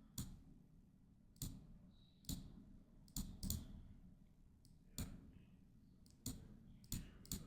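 Computer mouse clicking: about nine sharp single clicks at irregular intervals, a few a second apart, some close together in pairs.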